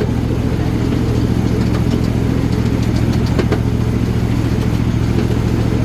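Ride-on miniature railroad train running, a steady engine hum with a few light clicks around the middle.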